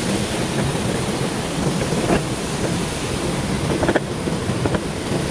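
Steady rushing noise of a mountain river and waterfall, with a few faint clicks about two and four seconds in.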